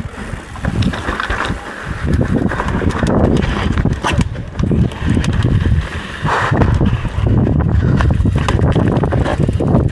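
Wind buffeting the microphone during a mountain-bike ride, with irregular knocks and rattles.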